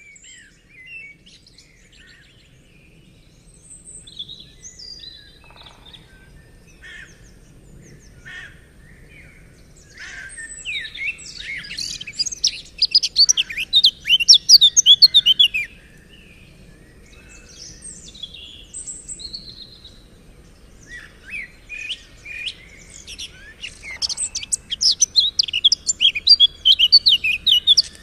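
Birdsong: scattered quiet chirps, then two long bouts of loud, rapid, high-pitched song, one about ten seconds in and one from about twenty-one seconds to the end.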